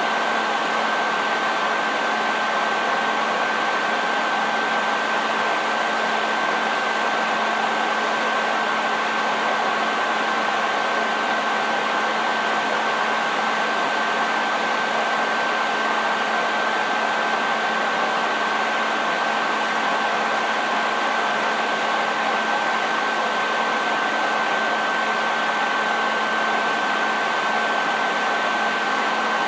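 Hair dryer running steadily: an even rush of blown air with a constant high whine from the motor and a low hum beneath, never changing.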